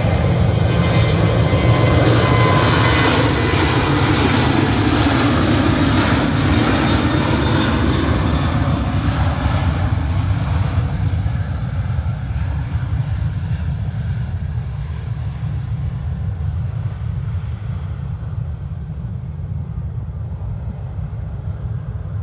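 Jet airliner passing close by: a loud engine noise that peaks in the first few seconds, then fades and grows duller from about ten seconds in as the aircraft moves away.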